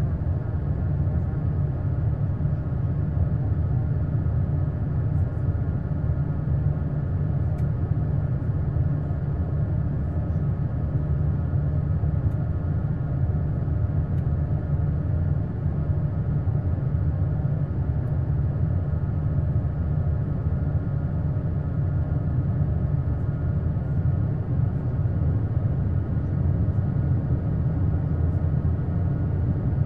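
Steady cabin noise of an Airbus A220 with its Pratt & Whitney PW1500G geared turbofan engines running, heard from inside the cabin: a deep, even rumble with several steady engine tones over it.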